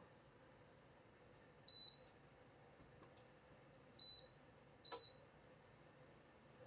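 Dreo space heater's control electronics giving three short high beeps, a few seconds apart, with faint clicks of buttons being pressed.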